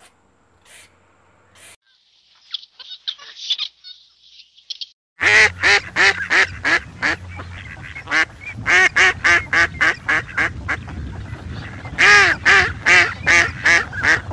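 Birds calling: a few seconds of thin, high peeping, then from about five seconds in a loud run of short honking calls, about three a second.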